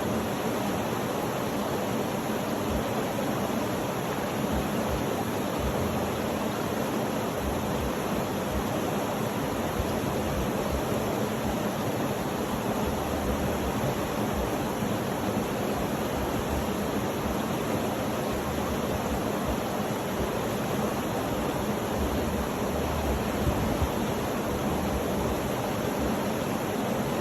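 Steady, unchanging rushing noise, deepest and fullest in the low-middle range, played as a sleep sound.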